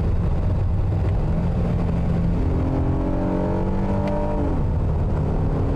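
Honda Odyssey's V6 engine heard from inside the cabin over low road rumble. A stronger engine note comes in about two and a half seconds in and drops sharply in pitch about four and a half seconds in, as the automatic transmission upshifts on the shifter paddle with no lag.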